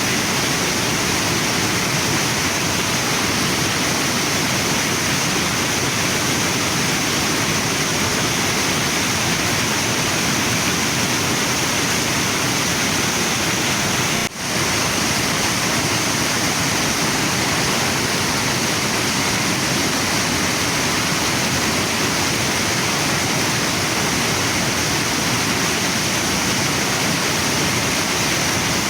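Waterfall and river water rushing steadily, an even wash of noise, with one brief dropout about halfway through.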